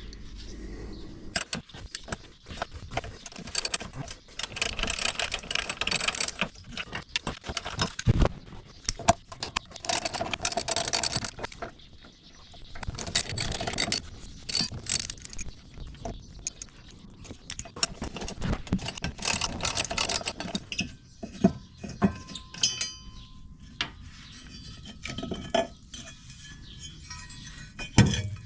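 Hand tools clicking and clinking against metal in repeated spells of rapid clicks with short pauses between them, as the intake grate of a Yamaha VX110 jet ski's pump intake is unbolted.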